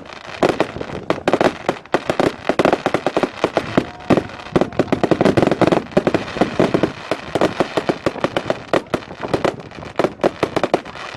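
Fireworks display going off in a rapid, unbroken barrage: many sharp bangs and crackles a second, overlapping.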